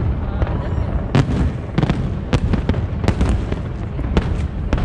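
Aerial fireworks exploding: a rapid, irregular string of more than a dozen sharp bangs over a continuous low rumble of booms.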